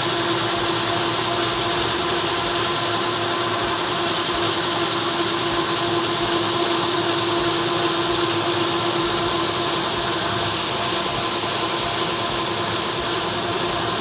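Bona FlexiSand PowerDrive gear-driven floor buffer running steadily while sanding a hickory floor: a constant motor hum over an even grinding hiss.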